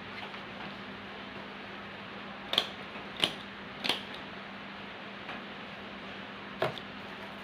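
Small sharp clicks and taps from handling bird leg rings and packing materials: three about two-thirds of a second apart, then one more near the end, over a steady low hum.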